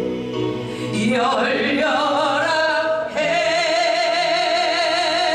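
Worship song sung live: a singer holds long notes with vibrato over steady accompaniment, sliding to a new held note about three seconds in.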